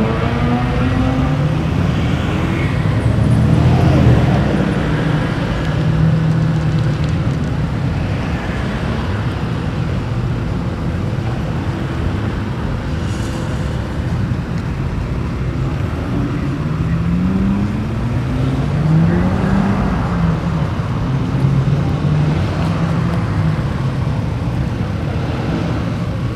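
Car engines running as cars drive past one after another, with engine pitch climbing as a car accelerates near the start, again a few seconds in, and again about two-thirds of the way through.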